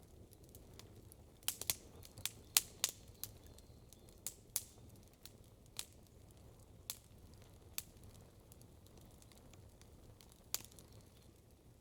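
Wood campfire crackling: sharp, irregular pops, a quick cluster of them about one and a half seconds in, then scattered single pops, over a faint steady low background.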